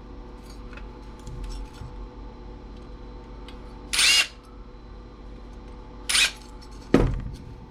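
Two short bursts of a cordless screwdriver backing out screws, about four and six seconds in, then a sharp knock near the end, among light clicks of parts being handled.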